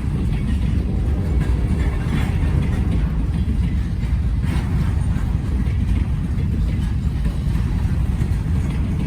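Freight train rolling past on the rails, a steady low rumble.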